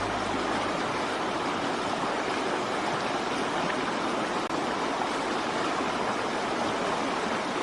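Steady rushing sound of water, an even hiss with no distinct drops or splashes.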